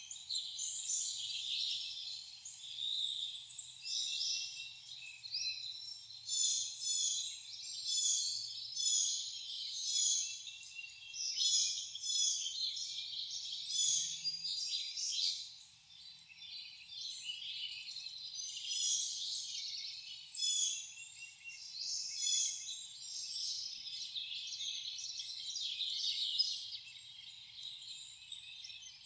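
Wild birds chirping and singing: many short, overlapping calls and trills, dense and continuous, with a brief lull a little past the middle.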